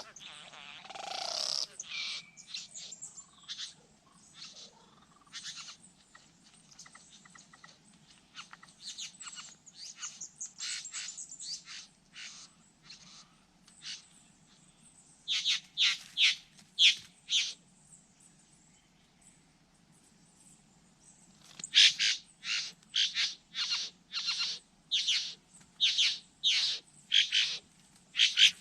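Birds calling in runs of short, sharp notes. A cluster of loud calls comes around the middle, and a quicker series of about two calls a second fills the last third.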